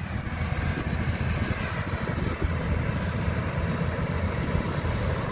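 An engine running steadily, a low even rumble with a fast pulse.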